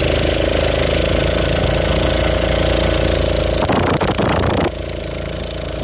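A motor running steadily at a constant pitch, interrupted for about a second, roughly four seconds in, by a short stretch of other noise, after which it runs a little quieter.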